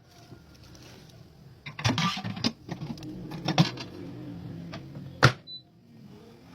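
Creen AG86B air fryer oven being set up and switched on: a few knocks and clatters of its parts, then its motor hums steadily for about three seconds and stops at a sharp click, followed by a short high beep.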